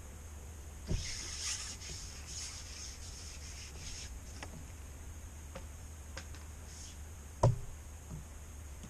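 Handling noise: rustling and rubbing with a few small clicks, a dull knock about a second in and a louder knock about seven and a half seconds in, over a steady low rumble.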